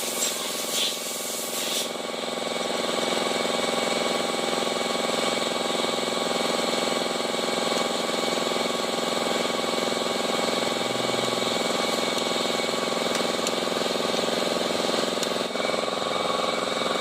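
Honda i-DSI car engine running steadily with an even, many-toned hum. A hiss is heard over it at first and cuts off about two seconds in.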